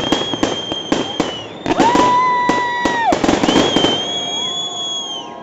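Fireworks crackling in quick bursts of small bangs, with several long, steady, shrill whistles sounding one after another. The crackling dies away about three and a half seconds in.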